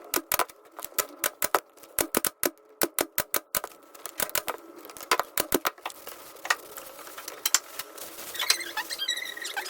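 Rapid sharp clicks and taps of hand tools working on a rush chair seat, about four or five a second, thinning to occasional clicks after about four seconds. Music starts near the end.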